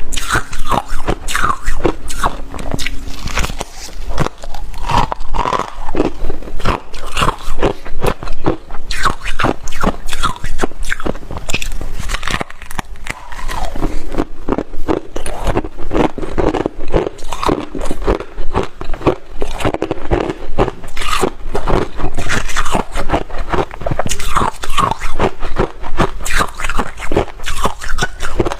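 Close-up crunching and chewing of brittle frost ice needles, many crisp bites in quick succession.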